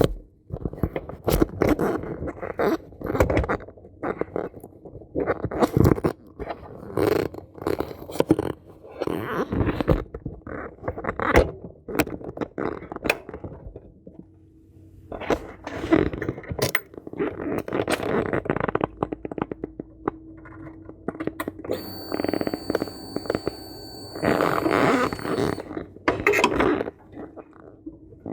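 Irregular knocks, scrapes and rustles of gear being handled close to the microphone. A faint steady high-pitched tone sounds for a few seconds about two-thirds of the way through.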